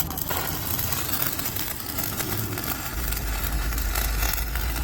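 Electric arc welding: the arc crackling steadily, with a low hum joining about three seconds in.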